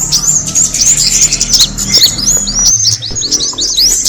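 Small birds chirping rapidly and continuously: dense strings of short, high, sharply gliding chirps that overlap with no break, the kind of call used as a lure for kemade birds.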